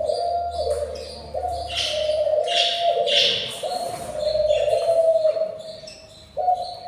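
Budgies chirping and calling in quick short notes, over a continuous low tone that steps back and forth between two pitches about once a second.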